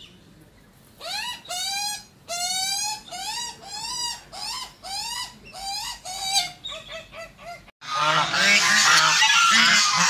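Australian magpie calling, a series of squeaky rising calls at about one to two a second, typical of a juvenile begging from an adult. About eight seconds in, a flock of white domestic geese honking loudly takes over.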